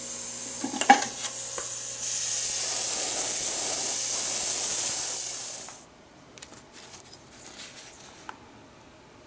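Paint spraying with a steady hiss that cuts off suddenly near the end, followed by a few faint clicks of handling.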